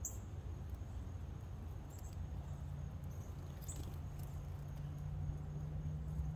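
A few brief, high chip notes from small birds at a seed feeder, one at the start and others about two and three and a half seconds in, over a steady low rumble.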